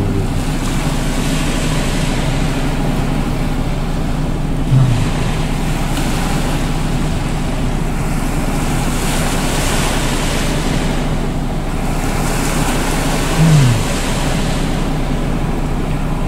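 Waves washing against the shore with a steady low motor hum underneath. Two brief low falling sounds come about five seconds in and again near thirteen seconds.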